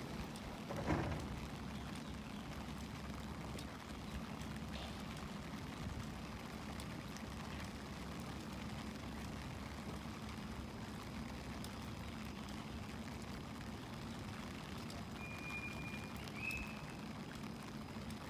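A JR East E721-series electric train standing at a platform in steady rain, with a steady low hum under the rain's hiss. There is a short thump about a second in, and two short high tones near the end.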